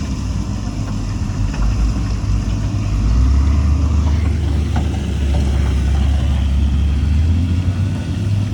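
Heavy diesel earthmoving machinery running steadily under load, a deep low engine sound that shifts in pitch about three seconds in and again near the end, with a few faint knocks in between.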